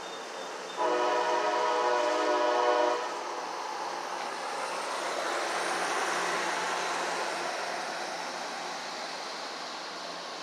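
Train horn sounding one blast of about two seconds, followed by the rumble of a passing train that swells and then slowly fades.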